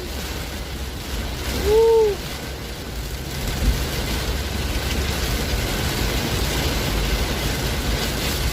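Heavy downpour: a steady hiss of rain over a low rumble. About two seconds in, a short tone rises and falls.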